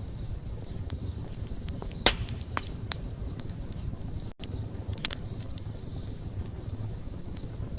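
Wood campfire burning: a steady low rumble of flame with scattered crackles and pops, the sharpest about two seconds in. The sound cuts out for an instant a little past four seconds.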